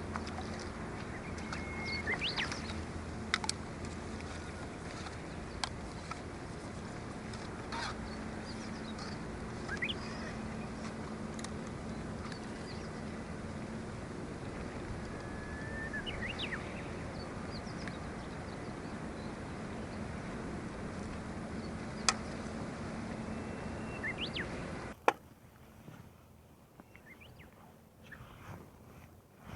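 Steady outdoor wind and water noise on the microphone, with a few short rising bird calls and the odd click. About 25 s in it drops abruptly to a much quieter background.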